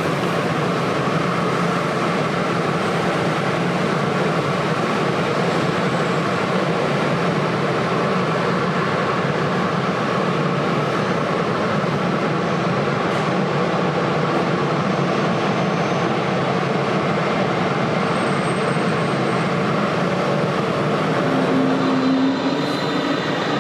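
Jet airliner engines running with a steady, even roar.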